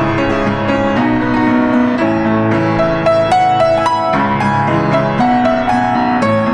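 Soft piano music: a gentle melody of single notes over held lower notes and chords.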